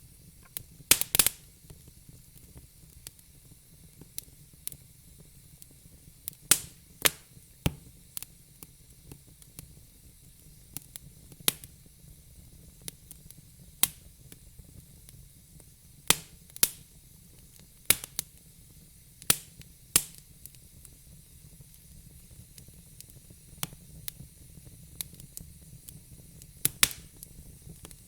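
Fire crackling: sharp, irregular pops and snaps, a few at a time with quiet gaps between, over a faint steady hiss.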